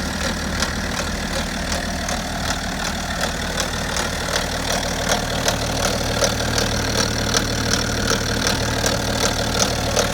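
BMW F10 530d's N57 straight-six diesel idling on a cold start with a regular knock about two or three times a second, a noise the owner suspects points to the timing chain.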